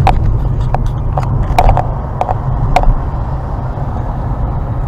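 Car cabin road noise while driving, a steady low rumble, with a handful of short sharp clicks or rattles in the first three seconds.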